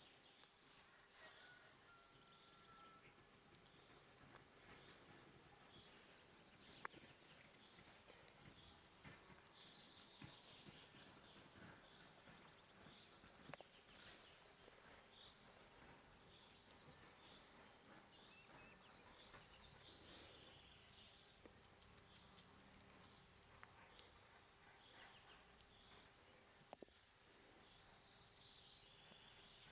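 Faint outdoor quiet with a steady, unbroken high-pitched insect trill, cricket-like, and a few soft clicks scattered through it.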